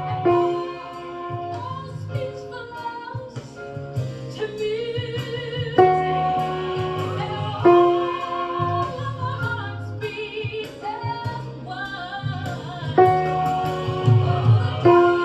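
Choral music: the alto line sung in sustained notes with vibrato, over instrumental accompaniment.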